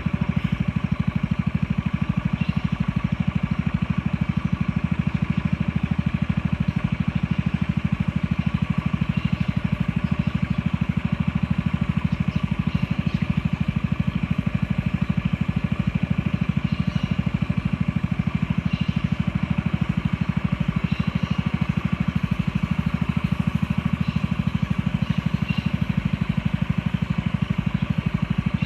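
Boat motor running steadily at constant speed with a fast, even pulse.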